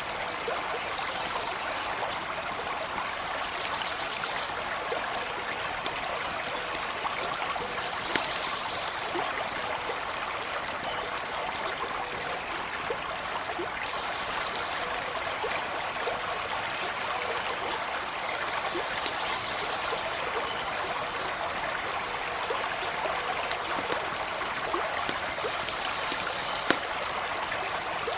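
A small stream running and trickling steadily, with the sharp crackles and pops of a campfire scattered through it.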